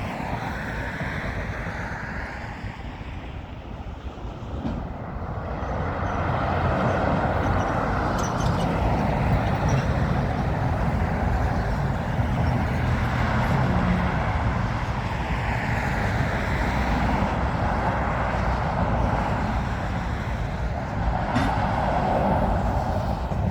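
Freight cars of a CN train rolling past on the rails: a steady rumble and clatter of wheels on track that swells and eases as cars go by.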